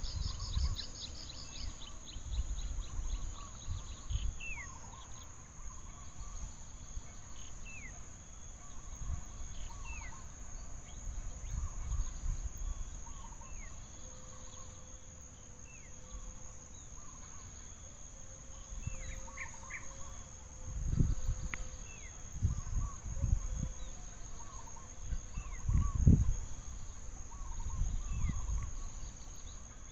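Steady high-pitched insect drone with many short, falling bird chirps over it. Several low thumps come through, loudest around two-thirds of the way in.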